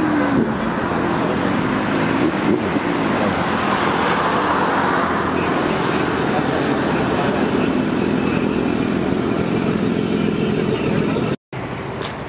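Car engines running steadily, with people talking in the background.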